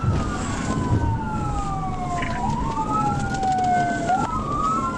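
Police cruiser siren in wail mode, rising and falling slowly about every two seconds, with a second wailing tone overlapping out of step, over the engine and road noise of the pursuing cruiser.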